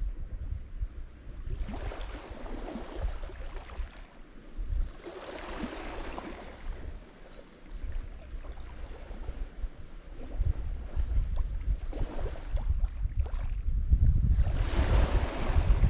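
Lake Michigan waves washing onto the shore. Each wave brings a hissing surge that swells and fades, a few seconds apart. Low wind rumble on the microphone builds in the second half.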